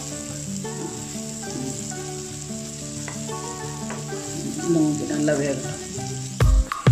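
Chicken cutlets shallow-frying in oil in a pan, sizzling steadily as a metal spatula turns them. Near the end, music with heavy bass beats comes in.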